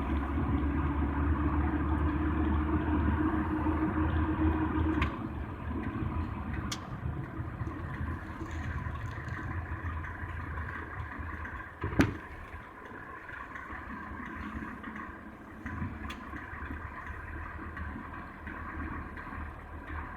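Car running at low speed, heard from inside the cabin. A loud low rumble for the first five seconds drops away to a quieter steady running noise, with a single sharp click about twelve seconds in.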